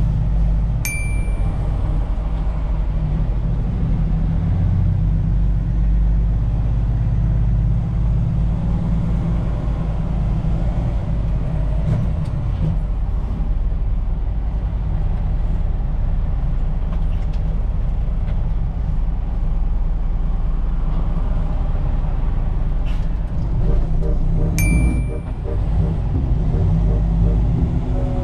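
Truck engine and road noise heard from inside the cab while driving, a steady low rumble. A short high electronic beep sounds about a second in and again near the end.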